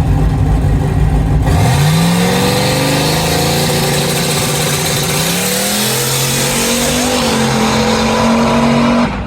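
A drag-race car's engine runs low and steady, then about a second and a half in it launches with a sudden loud rush. The engine note climbs as the car pulls away, climbs again midway, holds high, and cuts off near the end.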